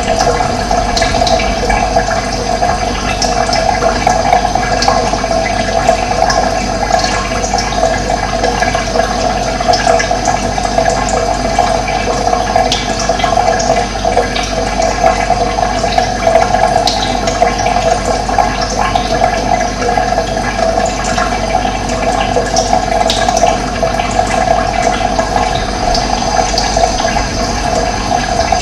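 Running water flowing steadily, an even rush of water, with faint short high notes scattered through it.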